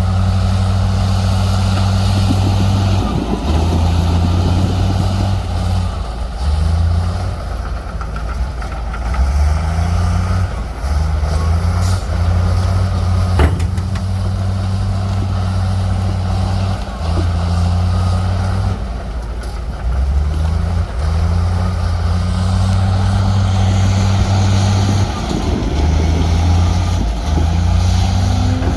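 Heavy diesel engine of earthmoving machinery working under changing load, its low note stepping up and down every second or two, with a single sharp knock about halfway through.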